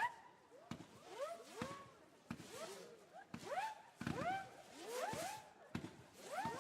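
Daytime fireworks: a rapid run of whistling effects launching about once a second, each a sharp crack followed by a whistle that rises and then falls in pitch, several overlapping.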